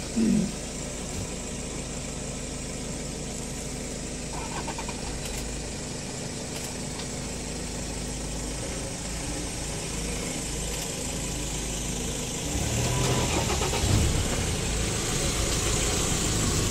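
Vehicle engine idling with a steady low hum, growing louder from about three quarters of the way in.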